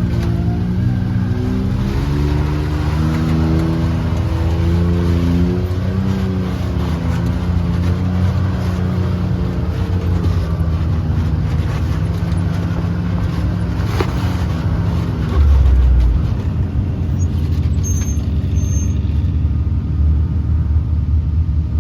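Can-Am Maverick X3 Max side-by-side driving a rocky trail, its engine running with a steady low rumble. There is a brief heavy thump about 15 seconds in.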